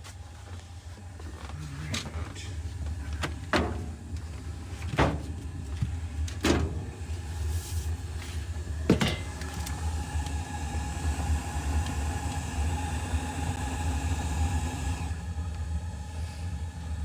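Old gas furnace running with a steady low hum. About five sharp clicks come in the first nine seconds, and from about ten seconds in a steady whine joins the hum.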